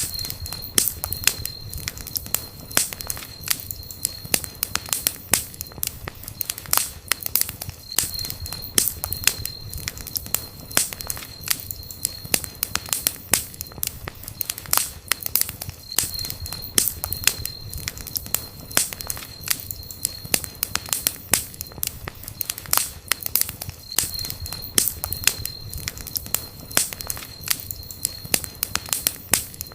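Campfire burning, with wood crackling and popping in a dense, irregular stream of sharp snaps over a low rumble of flame. A faint thin high tone comes and goes every few seconds.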